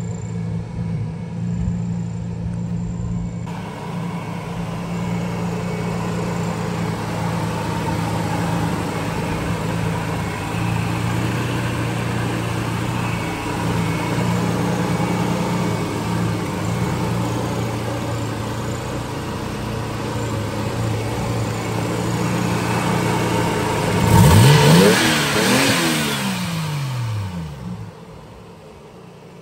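Toyota 1JZ-GTE VVTi turbocharged straight-six idling steadily. Near the end it is revved once, the pitch shooting up and falling back to idle over about three seconds.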